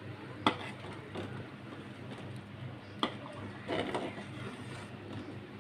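A cooking utensil knocking and scraping against a pot of simmering beef: two sharp knocks, about half a second and three seconds in, and a brief scrape a little before four seconds, over a steady low hum.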